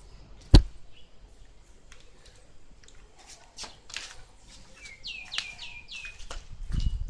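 A sharp knock about half a second in, then scattered light clicks and taps. A bird gives a quick run of four or five falling chirps about five seconds in, and a low rumble follows near the end.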